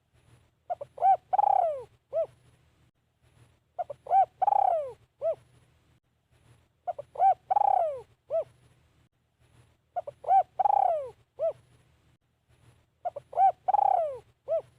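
Spotted dove cooing a repeated phrase about every three seconds: two or three short notes, a longer falling coo, then a short closing note. It gives five phrases in all.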